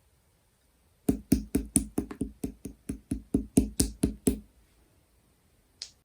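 A quick run of about fourteen sharp taps on a hard object, about four a second, then one lone click near the end.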